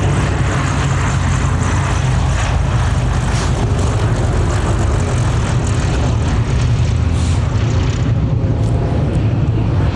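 Aircraft engine running, a loud steady drone with a low hum under a noisy rush.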